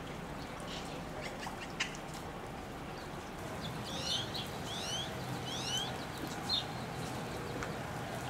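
Birds calling: a run of short rising chirps between about four and six seconds in, over a steady wash of water noise from the flooded street.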